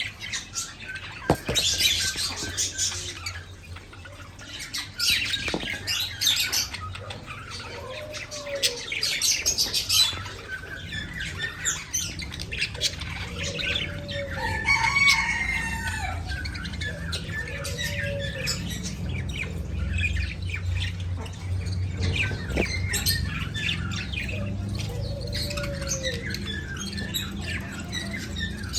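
Pet budgerigars chirping and chattering, with bursts of clicks and rustling in the first part. A low steady hum comes in about halfway.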